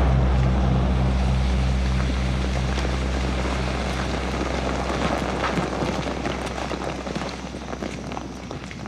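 Low, steady drone of an aircraft overhead, pulsing about three times a second at first, then slowly fading away.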